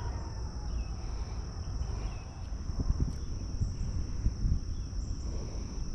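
Insects chirring in one steady, high-pitched drone, over a low rumble with a few dull knocks.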